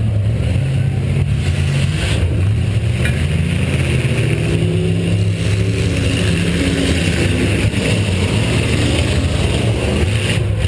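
Demolition derby car's V8 engine running loudly, its pitch rising as it revs about two seconds in, then holding steady.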